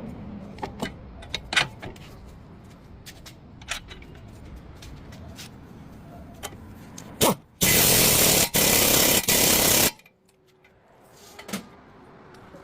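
Hand tools clicking and knocking on metal during car suspension work. About seven seconds in comes a loud, harsh burst of noise lasting about two seconds, broken twice by short gaps, before things go quieter.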